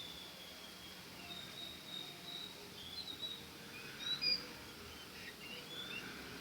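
Several birds chirping and whistling over a steady outdoor background hiss, with one louder chirp about four seconds in.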